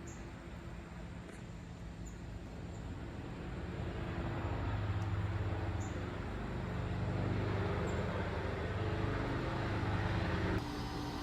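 An engine running with a steady low hum that grows louder over several seconds, then drops off abruptly near the end. A few faint, short high chirps sound above it.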